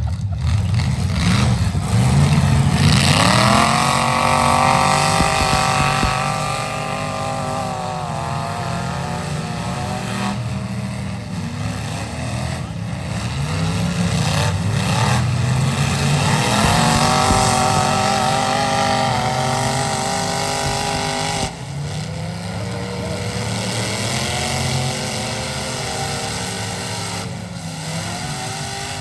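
Truck engine revving hard at full throttle under load. Its pitch climbs in long sweeps and settles, then climbs again around the middle, with a sudden drop late on.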